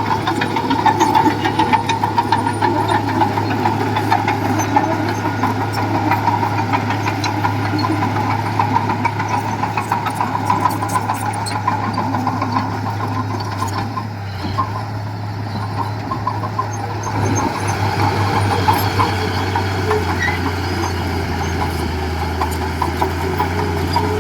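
Diesel engine of heavy earthmoving equipment running steadily and loudly, its low note shifting about two-thirds of the way through.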